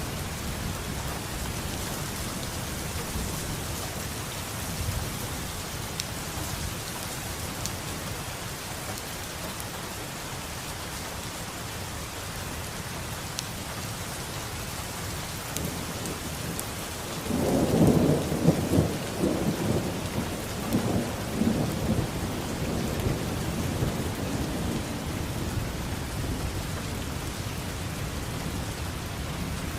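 Steady rain falling, with a clap of thunder a little past halfway that rumbles on for several seconds and fades back under the rain.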